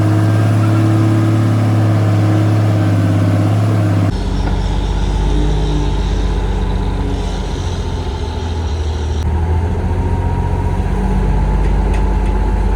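Heavy diesel engine of a bulldozer running steadily. About four seconds in, the sound cuts abruptly to a deeper engine note, which carries on steadily.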